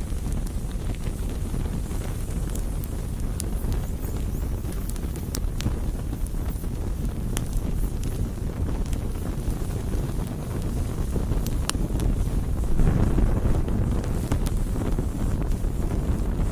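Campfire burning: a steady low rush with scattered sharp crackles and pops. The fire swells louder for a second or so about two-thirds of the way through.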